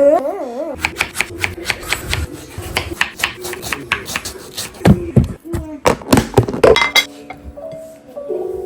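A quick, irregular run of sharp knocks and clicks, with a few held musical notes coming in near the end.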